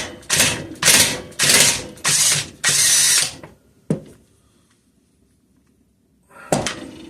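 Impact wrench hammering in several short bursts over about three seconds, spinning off the nut that holds the timing gear on the camshaft of a Kohler opposed-twin engine; a ratchet would only turn the cam. A click follows near four seconds and a knock near the end.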